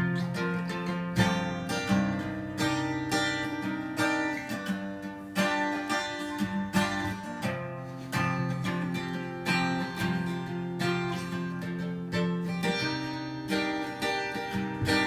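Acoustic guitar strummed and picked as a song's instrumental introduction, chords ringing with a steady rhythm of strokes.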